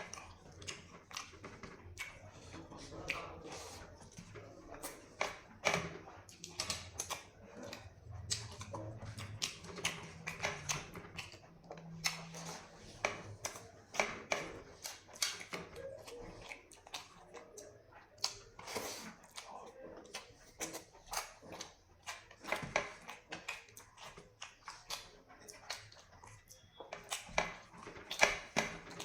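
Close-up eating sounds: crunchy chewing of fried dry chillies, many short sharp crackles and mouth clicks in an irregular rhythm.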